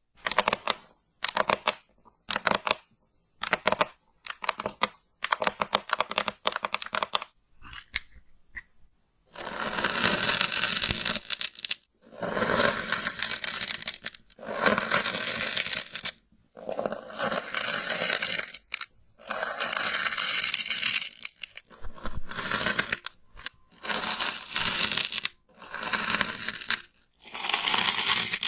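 Slime being squeezed and stretched by hand. For about the first nine seconds there are quick runs of small clicks and pops, then a series of longer crackling, tearing bursts of a second or two each, with short pauses between.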